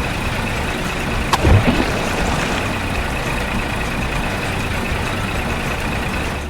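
A truck engine running steadily, with a sharp click and a couple of low thumps about a second and a half in. It cuts off abruptly at the end.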